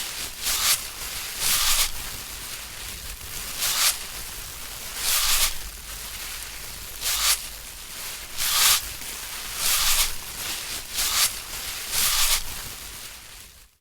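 Rushing, hissing surf noise of a stormy beach, swelling into short, brighter surges about every one to two seconds and fading away near the end.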